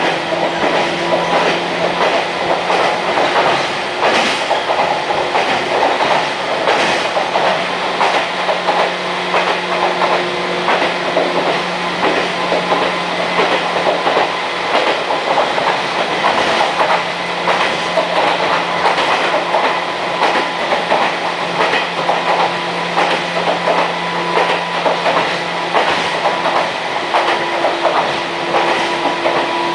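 Toyama Chihō Railway 14760-series electric train running steadily, heard from inside the passenger car: a steady hum under the rumble of the wheels, with frequent clicks as the wheels pass over rail joints.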